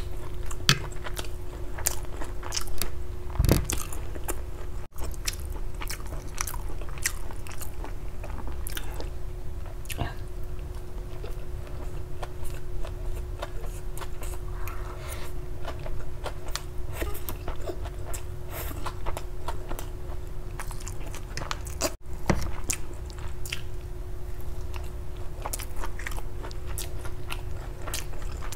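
Close-miked eating sounds of honey garlic chicken noodles being chewed and slurped: dense, irregular wet mouth clicks, smacks and chewing over a faint steady hum. The sound drops out for an instant twice.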